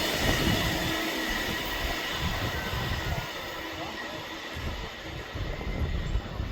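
Passing train receding, its running noise dying away steadily.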